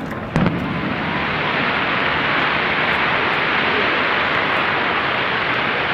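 A firework bang about half a second in, then a steady, dense hissing noise.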